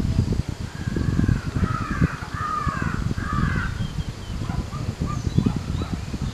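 Birds calling outdoors, a run of about four harsh, cawing calls in the first half, then a few fainter short calls, over a constant low rumble.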